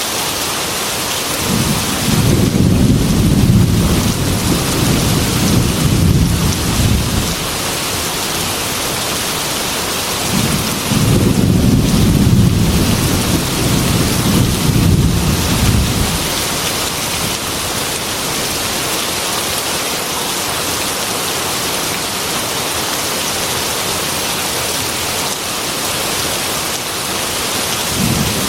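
Heavy rain falling steadily, with two long low rolls of thunder: one starting about a second and a half in and lasting some six seconds, another starting around ten seconds in and lasting about five. A third roll begins right at the end.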